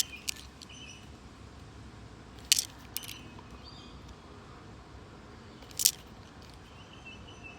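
Australian $2 coins clinking against one another as they are handled, a few sharp metallic clicks, each with a short ring.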